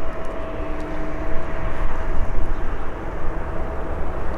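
Jet engine noise from the Singapore Airlines Airbus A350-941's Rolls-Royce Trent XWB turbofans, a steady rumble with a thin, even whine running through it.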